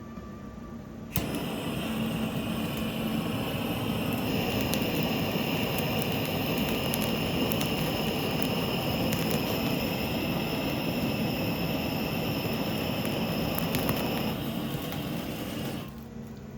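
Handheld kitchen gas torch burning, searing fish: it starts abruptly about a second in, holds a steady hissing rush with a faint high whistle over it, and cuts off near the end.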